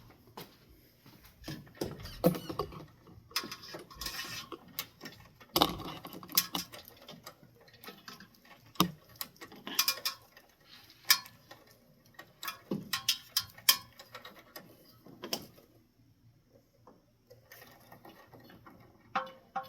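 Irregular clicks, taps and rattles of ceiling-fan mounting hardware being handled and fitted by hand, with a short lull about three-quarters through.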